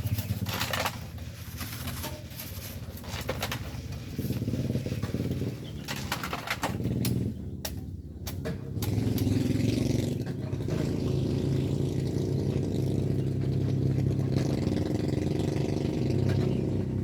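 Scattered knocks and clatter, then a motor vehicle engine running steadily from about nine seconds in, louder than before.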